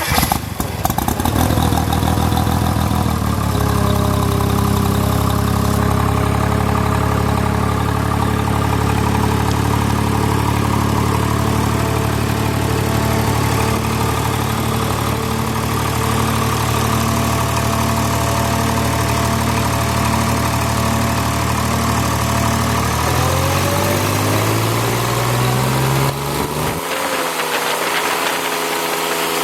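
Kubota WG750 liquid-cooled 25 hp gasoline three-cylinder engine idling steadily. About 23 seconds in it is throttled up, its pitch rising over a few seconds to a higher steady speed.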